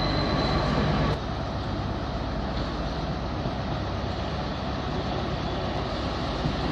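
A train at the station platform, a steady mechanical rumble. A steady whine with a low hum stops abruptly about a second in, leaving the running rumble.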